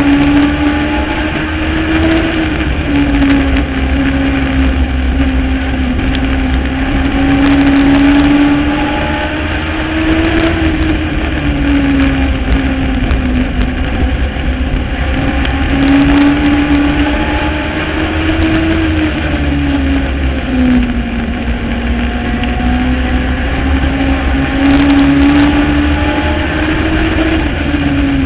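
Legends race car's Yamaha motorcycle-derived engine running hard under racing load. Its pitch climbs and then drops back in a repeating cycle about every eight seconds, as the car accelerates and lifts lap after lap, over steady low rumble and wind noise.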